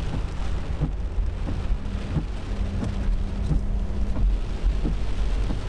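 Heavy wind-driven rain beating on a truck, heard from inside the cab, with many scattered drop hits over a steady deep rumble of storm wind.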